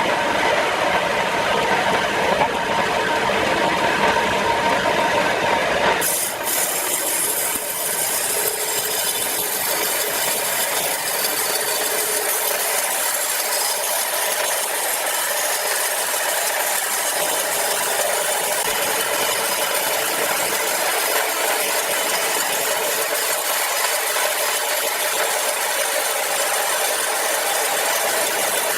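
Sawmill machinery running steadily as a log is sawn, with an abrupt change in the sound about six seconds in.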